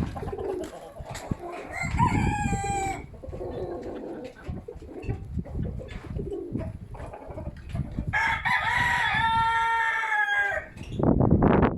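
A rooster crowing twice: a short crow about two seconds in and a longer one about eight seconds in. Strong wind rumbles on the microphone throughout.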